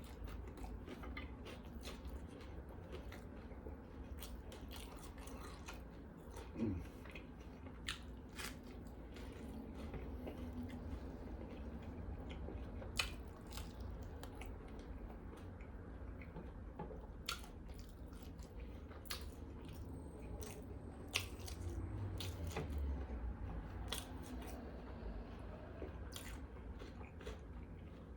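A person chewing and biting into a bacon, lettuce and tomato sandwich close to the microphone: wet mouth sounds with scattered crisp crunches and clicks, over a low steady hum.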